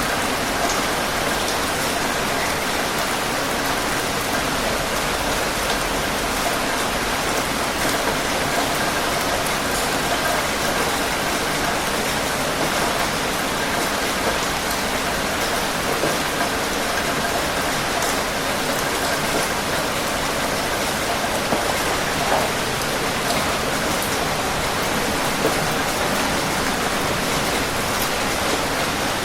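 Steady heavy rain falling, a dense even hiss with scattered individual drop patters.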